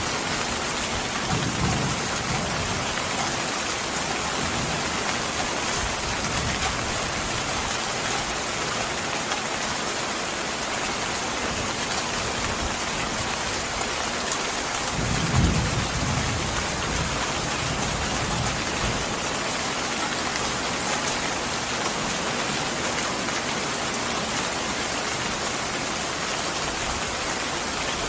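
Steady rain falling, with low rumbles of thunder about a second in and again near the middle, the middle one the louder.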